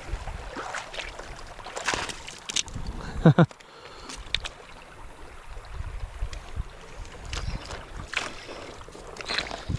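Water splashing and sloshing as a hooked fish thrashes and is fought in a shallow creek, with scattered sharp clicks and knocks and a low rumble of handling or wind on the microphone.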